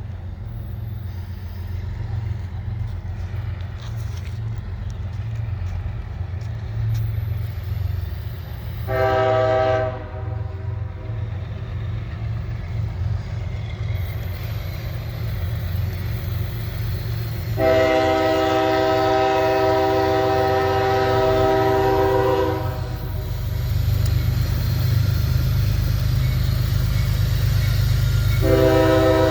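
Train locomotive horn sounding for a grade crossing: a short blast about nine seconds in, a long blast of about five seconds in the middle, and another beginning near the end. Under the horn is the steady low rumble of the approaching train, growing louder.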